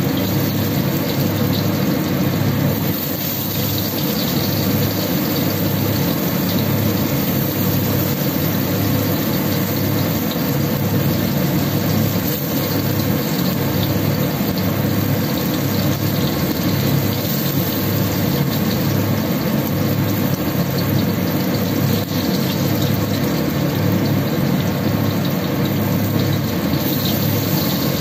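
Tempeh slices deep-frying in hot oil in a wok, a steady sizzling over a constant low hum.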